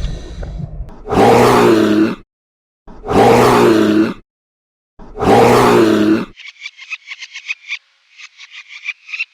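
A large animal roaring three times, each roar about a second long with short gaps between. From about six and a half seconds a fast run of short clicking calls follows.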